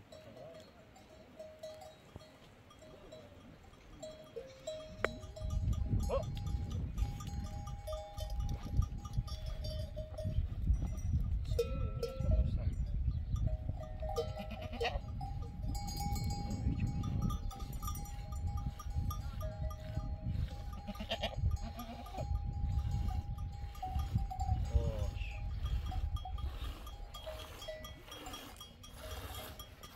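Flock of sheep and goats bleating now and then, with bells clinking. A heavy low rumble comes in about five seconds in and runs through most of the rest.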